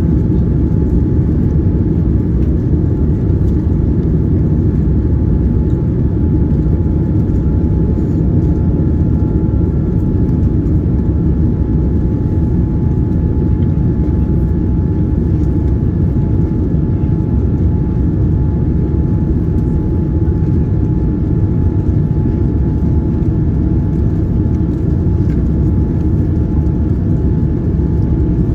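Steady cabin roar inside a Boeing 787-9 airliner: engine and airflow noise, deep and even, with a faint steady whine above it.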